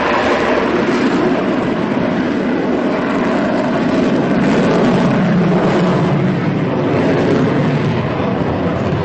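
Military aircraft flying past, its engines making a loud, steady rushing noise that swells slightly around the middle.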